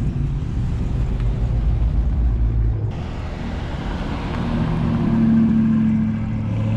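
Car engines running loud and low through their exhausts. About three seconds in the sound changes abruptly to another engine, which revs up slightly and holds.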